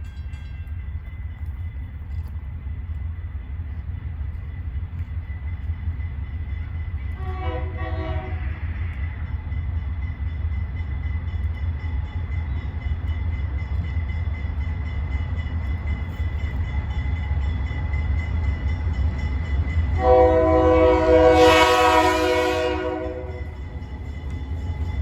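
Diesel freight locomotive approaching with a steady low engine rumble that slowly grows louder. Its air horn sounds once briefly about a third of the way in, then a longer, louder blast near the end, with another starting just at the close.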